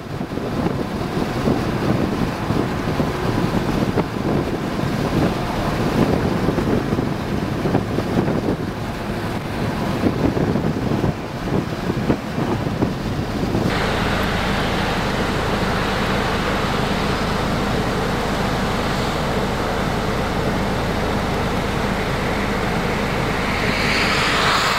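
Strong wind rushing and buffeting across the microphone, the storm's inflow. About 14 s in the sound changes abruptly to a steadier, brighter rush.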